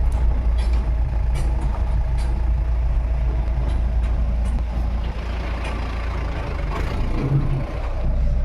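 Mahindra pickup truck's engine running with a steady low rumble.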